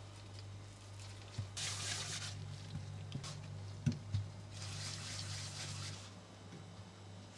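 Two short bursts of hissing noise, the second longer, with a few light knocks, over a steady low hum.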